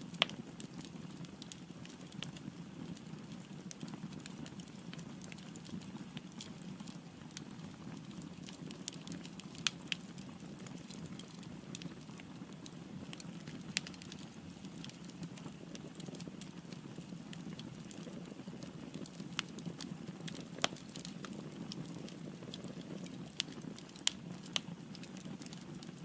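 Firewood burning in a fireplace: a steady low noise of flames under irregular sharp crackles and pops, a handful of them louder than the rest.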